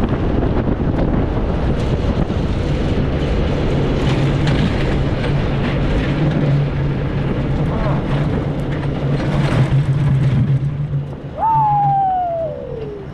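Front-engine dragster making a drag-strip pass at full throttle, a steady engine drone heard under heavy wind noise on the microphone. Near the end a person lets out a long whoop that falls in pitch.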